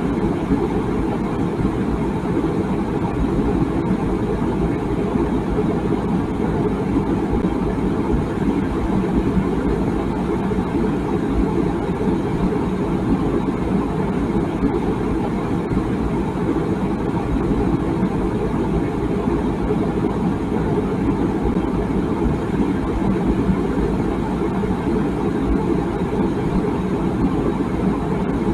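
Water boiling in a tea kettle: a steady, low rumbling boil with no whistle.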